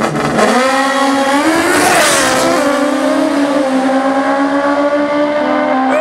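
Racing engine revved up sharply and held at high, nearly steady revs.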